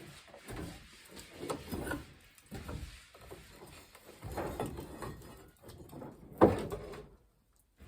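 Old wiring and cords being pulled and handled: irregular rubbing and scraping with a sharp knock about six and a half seconds in, then the sound cuts out abruptly near the end.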